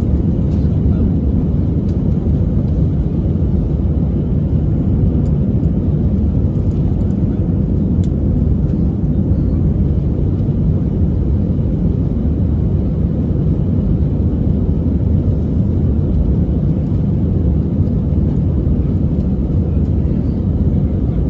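Steady cabin noise of an Airbus A320-200 heard from a passenger seat: a loud, even low rumble of the engines and airflow, with a faint steady hum, holding unchanged throughout.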